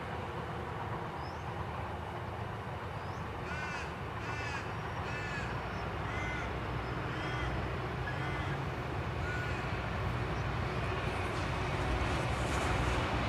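A crow caws about eight times in a series a few seconds in, over the steady low rumble of a passing train that grows slightly louder near the end.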